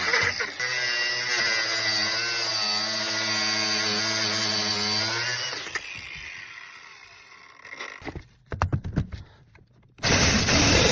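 A power tool's motor running steadily for about five seconds, then winding down and fading. Short, rough bursts of noise follow, and a loud burst comes near the end.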